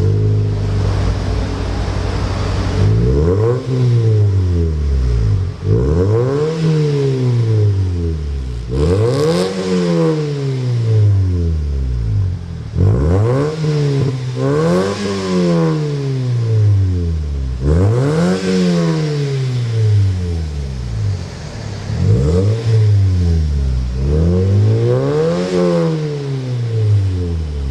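Car engine breathing through a Hipower aftermarket racing exhaust: idling steadily, then revved up and let fall back about eight times, each rev rising and dropping in pitch.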